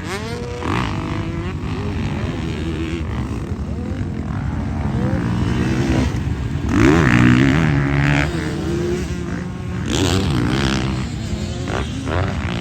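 Dirt bikes running on a motocross track, their engines revving up and down as they ride past. The loudest rise and fall comes about seven seconds in, with another loud pass about ten seconds in.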